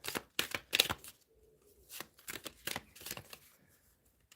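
A deck of cards being handled and shuffled: a quick run of sharp card flicks and taps in the first second, then another run of lighter ones about two to three and a half seconds in.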